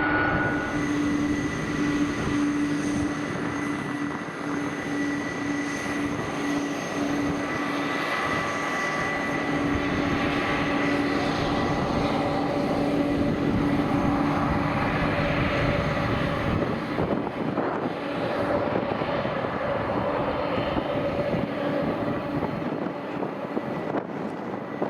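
McDonnell Douglas MD-11F freighter's jet engines running, a steady rush of noise with a steady whine held throughout.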